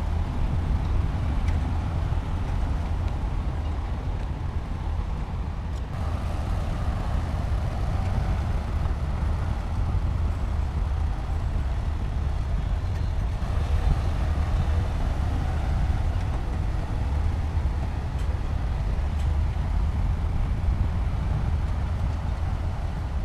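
Heavy diesel earthmoving machinery running steadily with a deep, low rumble; the sound shifts slightly about six seconds in and again near the middle.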